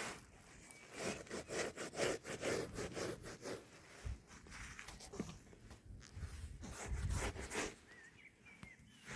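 Wood being scraped in quick repeated strokes, in two runs with a short pause between.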